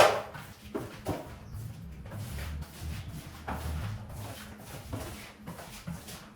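A sharp knock, then irregular scrubbing and scraping strokes on a rug, with a low rumble about two to four seconds in.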